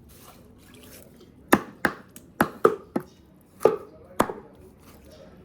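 Knife chopping chicken pieces: about eight sharp, irregular chops, starting about a second and a half in and ending near the four-second mark.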